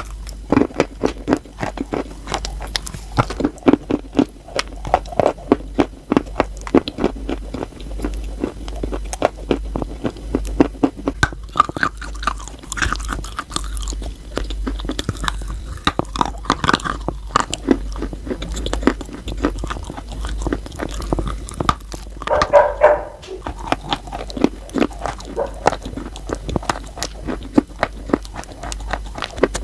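Close-miked biting and chewing of wet chalk: dense, irregular crunches and crackles, several a second, running on without a break.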